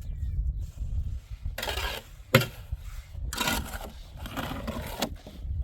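Masonry work: rough scraping strokes on hard building material, with one sharp knock a little over two seconds in, over a steady low rumble.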